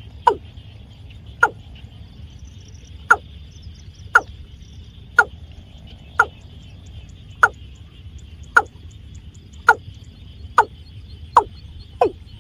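Watercock (cúm núm) calling, used as a trapping lure: about a dozen short, hollow notes, each falling quickly in pitch, repeated roughly once a second and quickening slightly near the end, over a steady high hiss.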